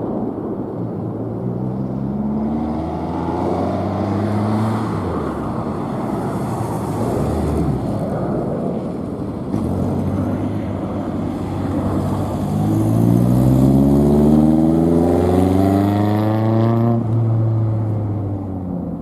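A car's engine revving hard through a gymkhana course, its pitch climbing and dropping again and again as the driver accelerates, shifts and brakes. It is loudest on a long climb in the last third, then falls away near the end.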